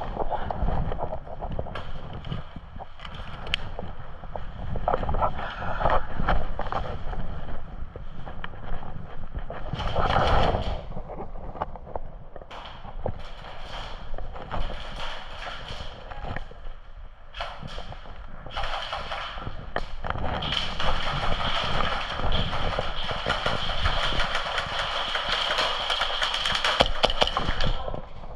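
Airsoft gunfire: scattered sharp clacks of shots over the rumble and rustle of the player moving.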